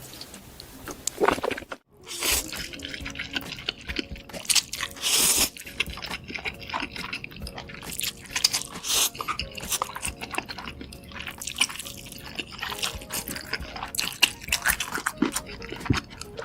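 Close-miked eating sounds: wet chewing, lip smacks and small clicks of a mouthful of spicy stir-fried noodles, with one longer hissing stretch around five seconds in. The sound drops out briefly about two seconds in.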